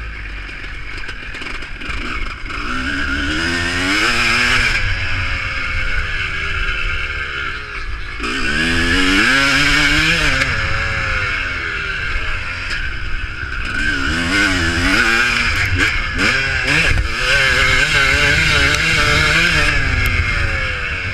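Motocross motorcycle engines revving up and falling back again and again as bikes race on the track, over a steady din of engines.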